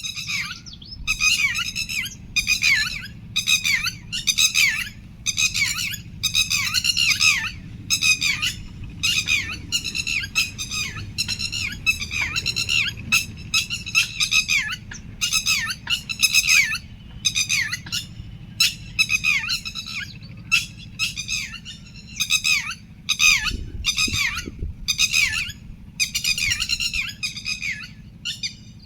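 A bird calling over and over in short, harsh, downward-sliding calls, about one or two a second with brief gaps, over a low steady hum.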